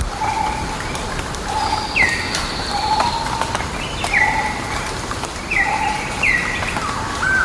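Several wild birds calling: a short low note repeated about once a second, mixed with higher notes that drop sharply in pitch and then hold, and one long faint high whistle, over a steady background hiss.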